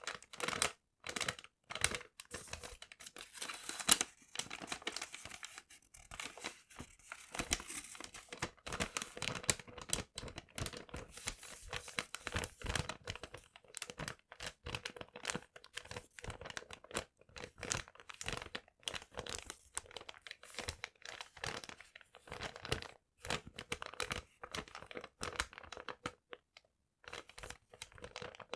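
Paper being handled close to the microphone, crinkling and tearing in dense, irregular crackles with short pauses.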